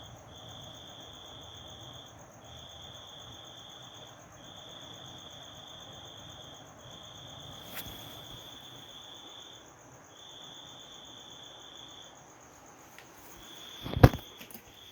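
A cricket calling in long trilled bouts of about two seconds each, with short breaks between them, over a faint low hum. A couple of loud knocks come near the end.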